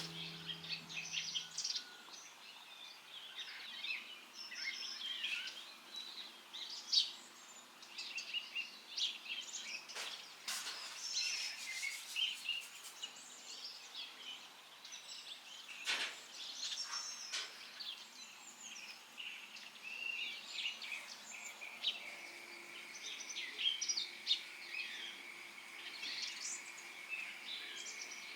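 Small birds chirping and singing, with many short overlapping calls, and a couple of soft clicks or knocks.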